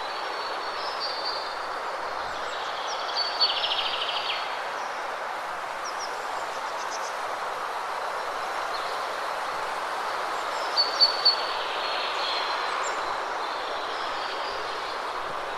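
Steady rushing of a waterfall with birds chirping over it: a few short high calls and a quick trill about three seconds in, and another cluster of sharp chirps around eleven seconds.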